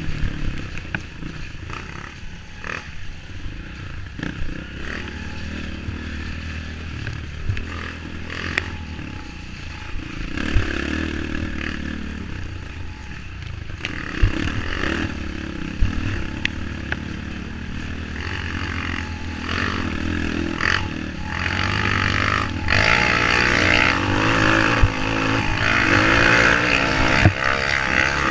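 Trail motorcycle engine running over rough ground, with knocks, scrapes and clatter from the bike. It gets louder in the last few seconds.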